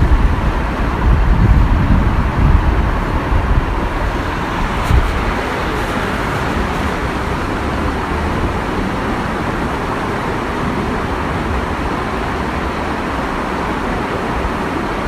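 Steady rushing water of a small waterfall, an even hiss without any rhythm. A heavier low rumble runs under it for the first few seconds, and there is a single faint tick about five seconds in.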